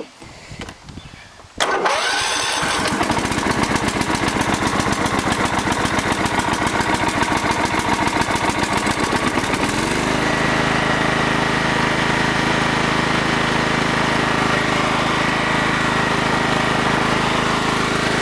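Scotts by John Deere 16-horsepower lawn tractor engine, on choke for a cold start, starts suddenly about two seconds in and runs with a fast, pulsing beat. About ten seconds in its note changes and it settles into a steadier run.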